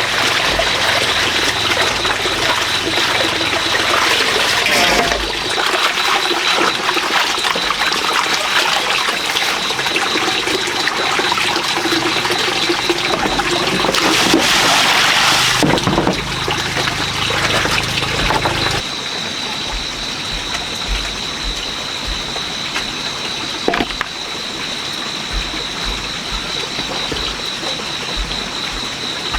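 Water running and splashing, with an even noisy wash that drops in level about nineteen seconds in. A single short knock comes near the end.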